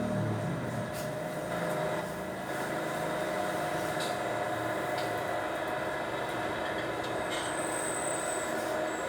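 Machinery running steadily, with a constant whine and a few faint clicks.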